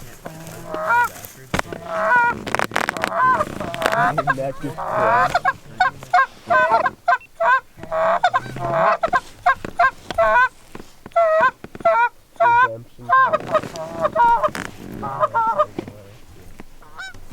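Canada goose honking and clucking: many short, bending calls in quick succession, often overlapping, with short gaps.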